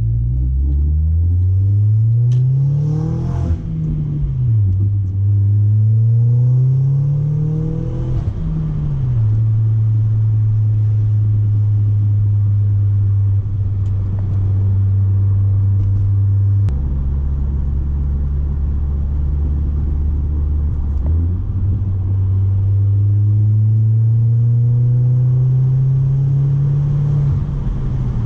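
Exhaust of a B6 Audi A4's turbocharged 1.8-litre four-cylinder through an ECS catback exhaust with no resonator. The revs climb and drop sharply twice in the first nine seconds, as at gear changes. It then runs at a steady pitch, changes pitch about halfway through and slowly builds revs again near the end.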